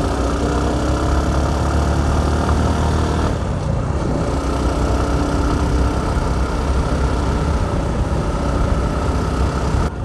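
A vehicle's engine running steadily on the road under a haze of road noise, its pitch drifting slightly. There is a brief break about three seconds in.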